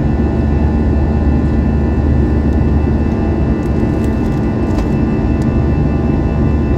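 Airbus A321 cabin noise in flight: steady roar of the jet engines and airflow with several steady high whining tones.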